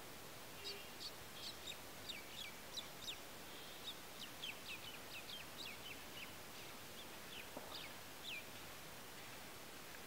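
A bird calling in a rapid chattering series of short, high notes, most sliding downward, several a second. The calls stop shortly before the end.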